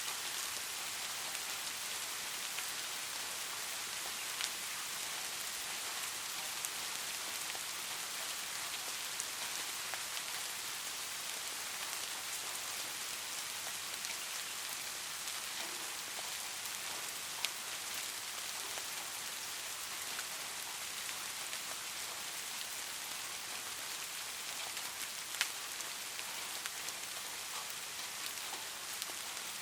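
Light rain falling steadily, a soft even hiss with scattered sharper drop ticks.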